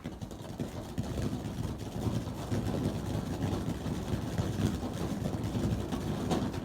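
Fireworks going off: a steady rumbling crackle that builds in the first second, with a sharper crack near the end.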